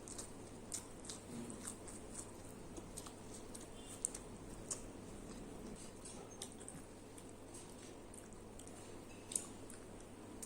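Close-up eating sounds: soft chewing with irregular small wet clicks and smacks of the mouth, over a faint steady low hum.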